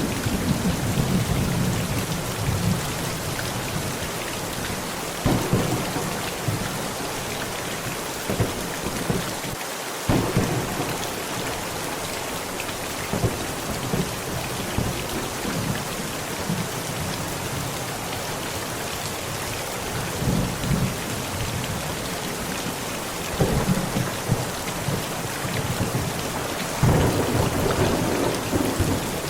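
Heavy rain falling steadily on a tent, with thunder rumbling on and off. Sharper claps come about five, ten, twenty-three and twenty-seven seconds in.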